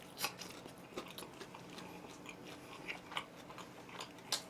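Close-up chewing and biting of crisp-skinned oven-roasted chicken: soft mouth sounds with a few sharp crunches, the loudest just after the start and just before the end.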